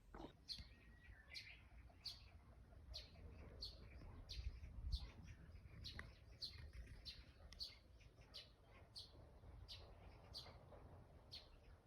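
A bird chirping faintly and steadily: one short, high chirp repeated about twice a second.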